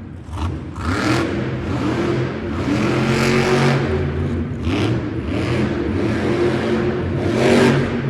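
Monster truck's supercharged V8 engine revving hard and repeatedly, pitch rising and falling, with a few sharp bangs, loudest near the end.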